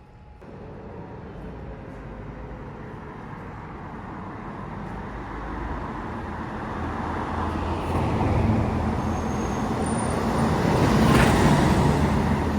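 Bus approaching along the road, its engine rumble and road noise growing steadily louder for about eleven seconds, then easing slightly near the end.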